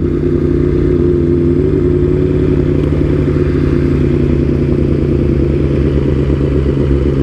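Motorcycle engine running steadily, its pitch shifting slightly about two seconds in.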